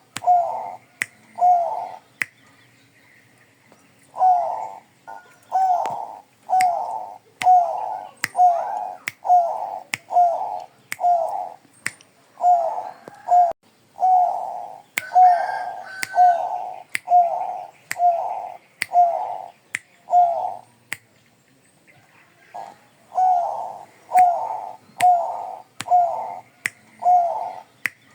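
Bangkok-bred zebra dove (perkutut) cooing: short notes about two a second in long runs, with brief pauses. Sharp clicks sound between the notes.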